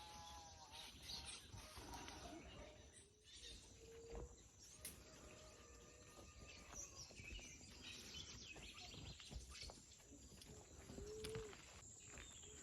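Faint outdoor ambience with scattered short bird calls and whistles, and a few soft clicks.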